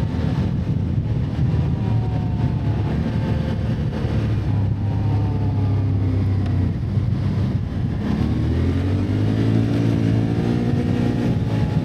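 ATV engine running under way, its pitch easing down in the first few seconds, then climbing again from about eight seconds in as it speeds up.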